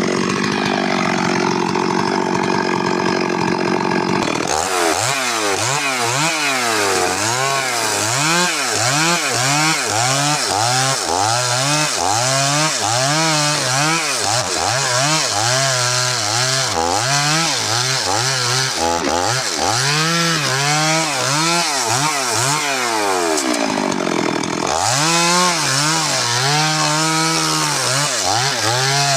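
Stihl MS 382 two-stroke chainsaw running at high revs, steady at first. From about four seconds in it is cutting wood, its pitch rising and falling about once a second as the engine bogs under load and recovers. Near the end the revs drop briefly and then pick up again.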